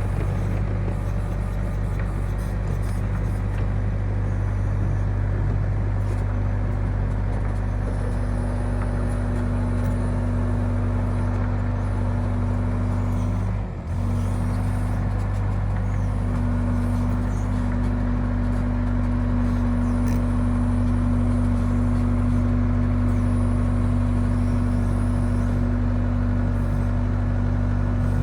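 Excavator's diesel engine running steadily, with a brief dip in level about halfway through.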